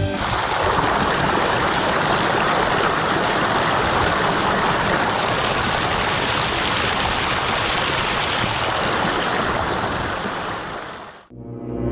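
Steady rush of a waterfall, even and unbroken, cutting off abruptly near the end as music begins.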